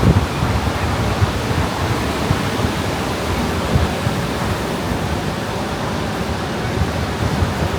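Steady rush of ocean surf breaking on the beach, with wind rumbling unevenly on the microphone.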